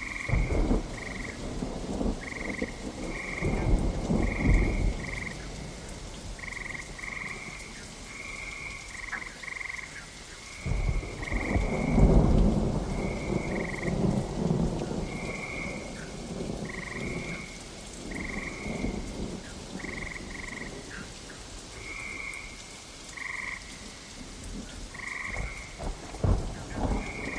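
Steady rain with thunder rumbling in several rolls, the loudest about eleven to fifteen seconds in, while frogs call over it in short, high, repeated notes.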